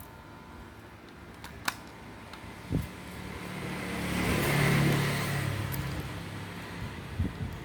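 A motor vehicle passing by: a low engine hum that swells to a peak midway and fades away, with a few light clicks before it.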